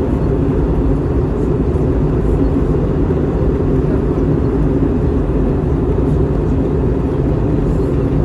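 Steady roar of an Airbus A321-231 in flight, heard inside the passenger cabin: engine and airflow noise, deep and unchanging.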